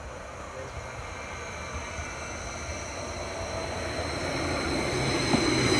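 Greater Anglia Stadler FLIRT multiple unit approaching along the line, its low rumble and a steady high whine growing steadily louder as it nears.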